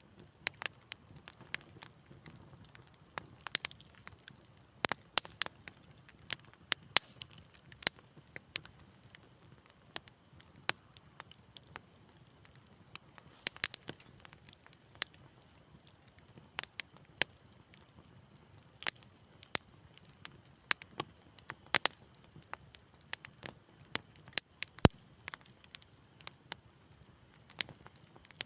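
Wood fire crackling: irregular sharp pops and snaps, several a second, over a faint low hiss of the flames.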